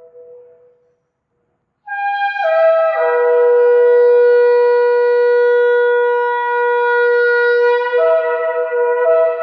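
Shofar being blown. A held note dies away, then after about a second of silence a new long blast starts high and drops in two quick steps to a lower note that is held for several seconds.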